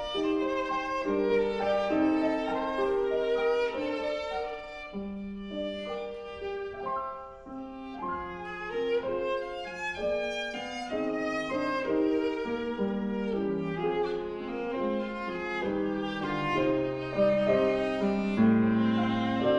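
Viola playing a bowed melody of held notes, with piano accompaniment.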